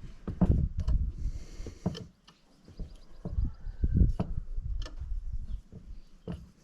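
Scattered metal clicks and knocks of a valve spring compressor being worked on an ATV cylinder head, compressing the valve springs to free the valve keepers.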